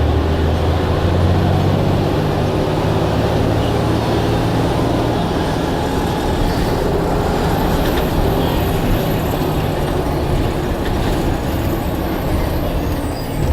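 Blue Bird All American bus running, with a strong low engine hum for the first couple of seconds that eases off and fades by about five seconds, leaving a steady rumble of road and running noise.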